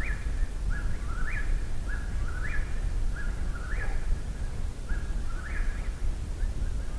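Eastern whip-poor-will singing close by: its three-part 'whip-poor-will' phrase repeated steadily, about one phrase every second and a quarter, each ending in a sharp rising note.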